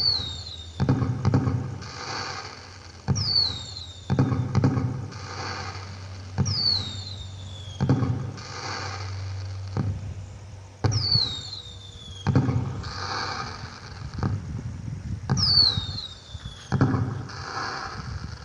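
Firework sound effects from an LED pixel cracker light: repeated falling whistles, each followed by a sharp bang and a spell of crackling, about every two seconds.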